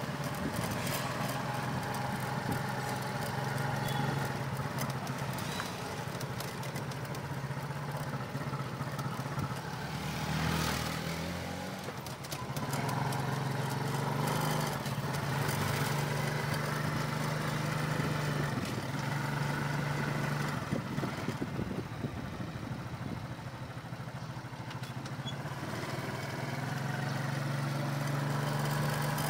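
Small motorcycle engine running under way, heard from the passenger seat of a motorcycle rickshaw. Its note drops briefly about ten seconds in, then rises and falls a few times as the speed changes, over road and wind noise.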